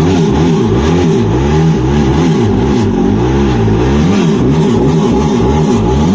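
Jet ski engine running out of the water, revved up and down again and again with throttle blips, a freshly revived engine that runs cleanly.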